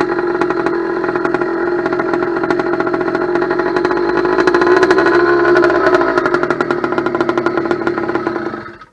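Two-stroke steel-bore 100cc kit engine on a motorized bicycle running steadily, with a brief rise in revs about five seconds in; the sound cuts off suddenly at the end.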